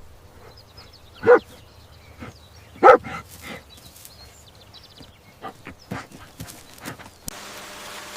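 Two short, loud barks about a second and a half apart, with lighter clicks and rustles after them; near the end the background changes to a steady hiss.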